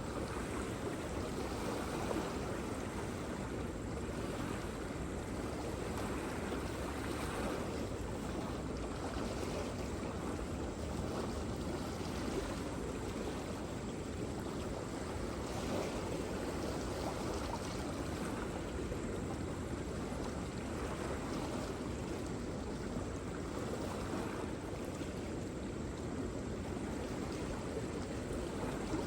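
Waterfall: a steady rush of falling water, with most of its weight in the low and middle range and no breaks.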